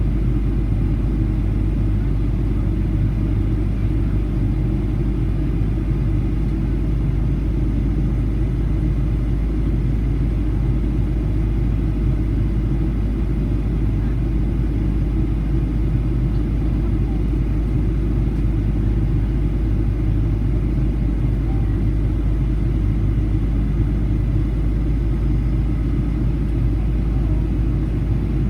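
Steady cabin noise inside a Ryanair Boeing 737-800 in flight: a constant deep rumble of its CFM56 engines and airflow over the fuselage, unchanging throughout.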